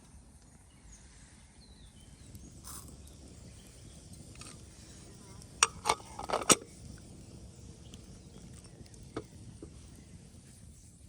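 A quick cluster of four or five sharp cracks or knocks a little past the middle, over a low steady outdoor background rumble, with a few faint ticks later.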